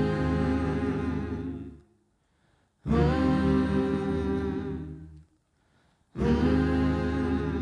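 A cappella music: layered human voices hum a held chord three times. Each chord swells in, fades out over about two seconds, and is followed by a short silence.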